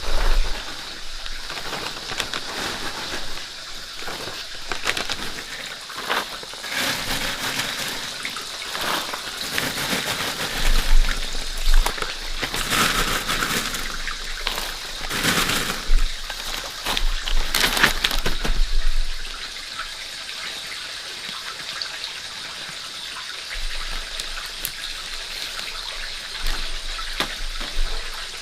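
Water running and splashing in irregular surges, busier for several seconds in the middle, then steadier and quieter.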